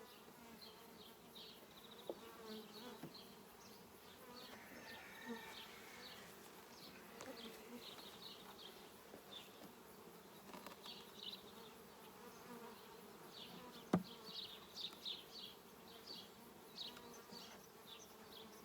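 Honeybees buzzing around an open hive, a faint steady hum, with a sharp click about 14 seconds in and a few lighter ticks.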